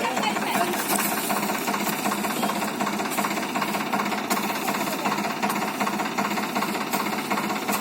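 Indo Farm 3035 DI tractor's direct-injection diesel engine running steadily with a rapid, even diesel knock and a hissy top end, hauling a sugarcane trolley.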